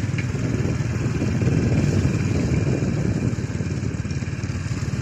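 Motorcycle engine running steadily as the bike is ridden at low speed.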